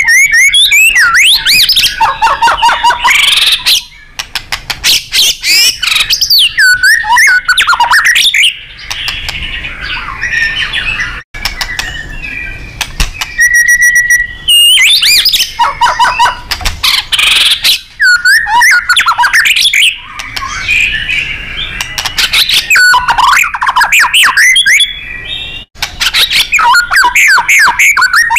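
White-rumped shama singing loudly in bursts of rapid, varied whistled phrases, each a few seconds long, with quieter twittering between them and one held whistle about halfway through.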